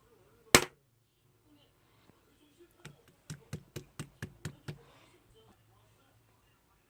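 One loud sharp knock about half a second in, then a quick run of about nine sharp taps, roughly five a second.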